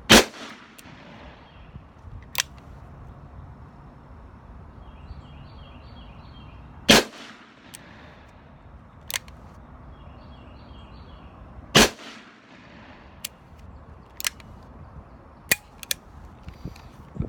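Three shots from a Smith & Wesson 686 .357 Magnum revolver firing Winchester 110-grain rounds, about five seconds apart, each with a short echo. The rounds fire without a hitch. Several fainter sharp cracks come in between.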